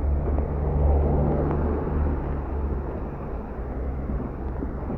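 A car passing slowly through floodwater, its engine humming and louder about a second in, over the steady rush of runoff water.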